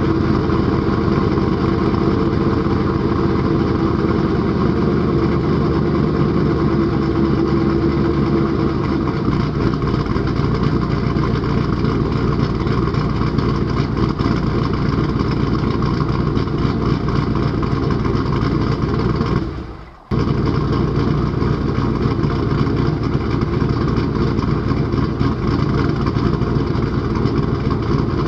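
Cammed Pontiac Trans Am's LT1 V8 idling through headers and a Hooker exhaust. The idle is steady for about the first nine seconds, then turns choppy and uneven, the lope of the aftermarket cam. The sound fades out briefly about twenty seconds in and comes straight back.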